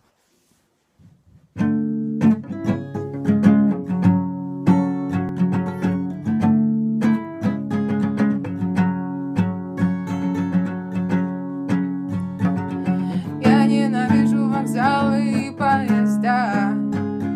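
Acoustic guitar playing a picked song intro, starting about a second and a half in. Near the end a wordless voice joins over the guitar.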